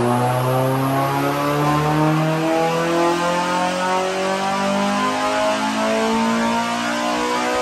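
Honda Civic Type R EP3's naturally aspirated K20 four-cylinder VTEC engine climbing steadily in revs under load on a rolling-road dyno, a power run pulling up through the rev range.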